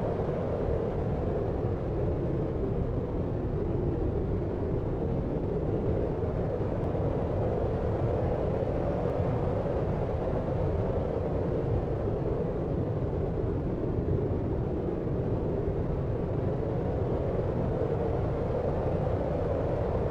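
Steady deep noise of the brown-noise kind, heavy in the bass and lower middle with little hiss on top, running evenly with no separate events.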